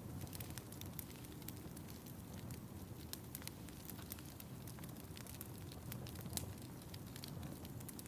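Fire in a fireplace crackling, with scattered sharp pops over a steady low rumble; one louder pop about six seconds in.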